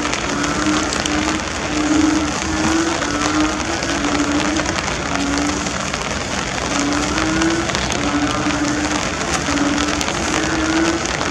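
Heavy torrential rain pouring steadily. Underneath it, short low-pitched calls recur irregularly, some slightly higher than others.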